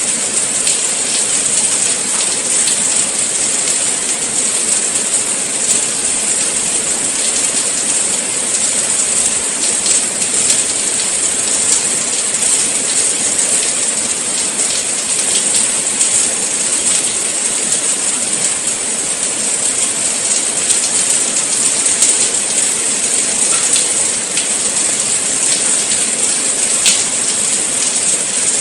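Steady rain falling, a dense even hiss with many small drops pattering.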